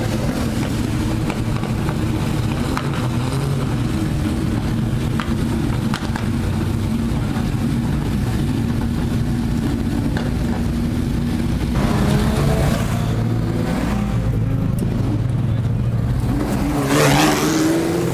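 Historic racing car engines running, their pitch shifting up and down; near the end one accelerates hard with a fast rising pitch.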